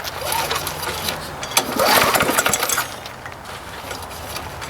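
Walk-behind lawn mower's small engine cranked twice with its recoil pull-starter but not catching. The mechanic suspects a broken flywheel key, as it gets spark only some of the time.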